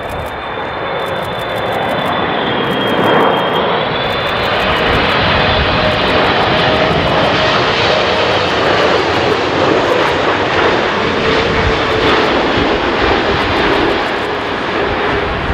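Jet airliner's engines running loud as it passes close by, a steady roar with a thin whine that slides slowly down in pitch; the roar swells about two seconds in and eases slightly near the end.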